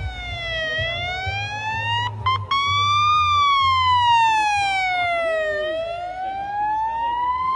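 A siren wailing, its pitch sliding slowly down and up in long sweeps of a few seconds each. Two short clicks sound a little after two seconds in.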